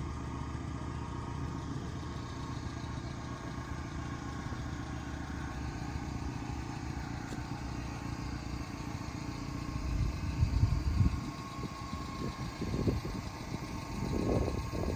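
Small kei-truck engine idling steadily, with a few louder low thumps about ten seconds in and again near the end.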